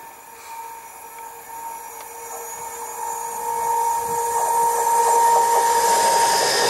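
Class 66 diesel locomotive approaching at the head of an intermodal container freight train, growing steadily louder, with a steady high whine over the rising rumble of the train.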